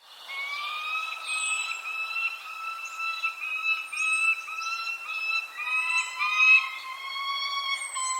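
Birds calling: a run of short nasal squawking notes, about two a second, each with several overtones, over high thin down-slurred chirps that come every couple of seconds. The sound cuts in suddenly at the start, and about two-thirds of the way in a steadier held note joins underneath.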